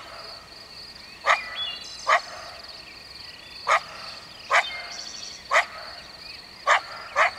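Coyote giving short, sharp single barks, about eight of them, spaced irregularly roughly a second apart. A steady high-pitched whine runs underneath.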